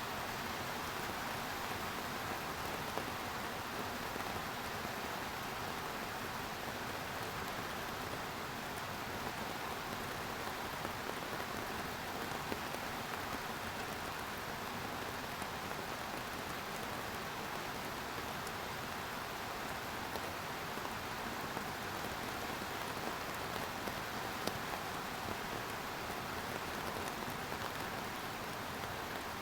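Steady rain falling, an even hiss of drops with scattered small patters of individual drops hitting a surface.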